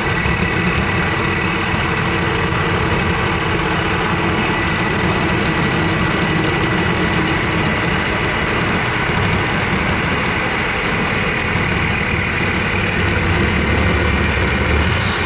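Corded DeWalt reciprocating saw running at full speed, cutting through scrap metal on an air-conditioning unit: a steady high motor whine over the rapid rattle of the blade in the cut.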